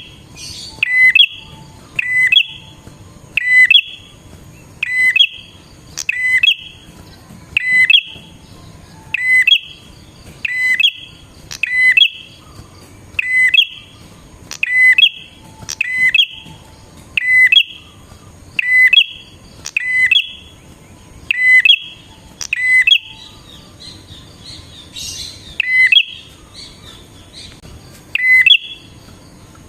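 Prenjak (prinia-type warbler) calling: a loud, short, sharp note repeated steadily about every second and a half, with softer twittering between the calls near the end.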